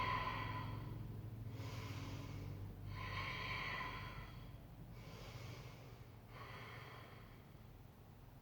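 A woman breathing hard and steadily while holding a plank: slow, audible breaths in and out, each about a second and a half long, growing fainter toward the end.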